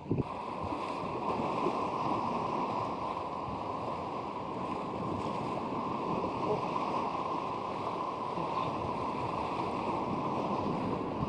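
Steady rushing noise of strong wind and surf, with no distinct events.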